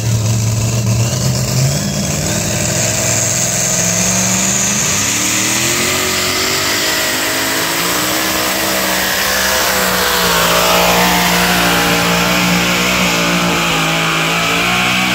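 Alcohol-burning two-wheel-drive pulling truck's engine revving up about two seconds in, then running hard at high rpm with a wavering pitch.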